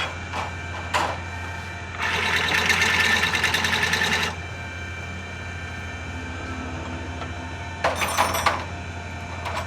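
Rapid metallic clicking in two bursts, a long one of about two seconds and a short one near the end, over a steady low hum.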